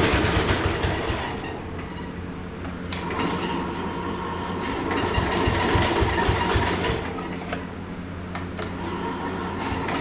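6.5 hp small engine with an exhaust stack running on a test bench with a rapid, even pulsing. Its level drops about a second in, swells again around the middle and falls back near the end.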